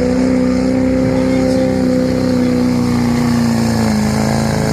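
Pulling truck's engine running hard at high, steady revs, its pitch sagging slightly about three and a half seconds in.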